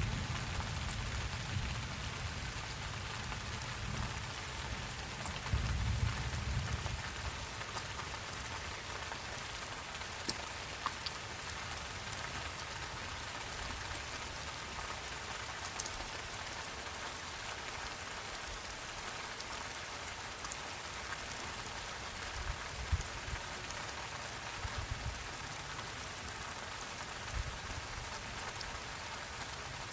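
Steady rain falling, a fine even hiss with scattered single drops ticking through it. Low rumbles swell up near the start, about a quarter of the way in and again near the end.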